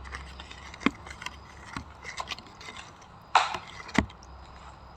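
Snack packages being handled and set down on a table: a scattered series of light clicks and knocks, with two louder knocks a little over three and four seconds in.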